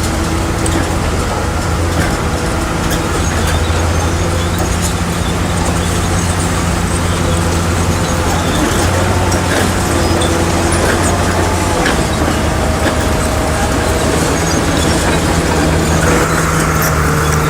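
Heavy diesel engine of a bulldozer running steadily under load, its pitch shifting slightly a few times, with scattered light clanks and a thin whine joining near the end.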